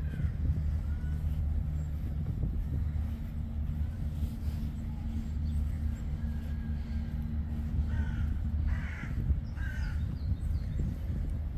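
Birds calling outdoors: a few short, harsh calls in quick succession about eight to ten seconds in, over a steady low hum.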